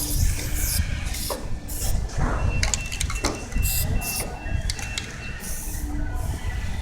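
Trigger spray bottle of spray wax spritzing onto car paint in short hissing squirts, about half a dozen times.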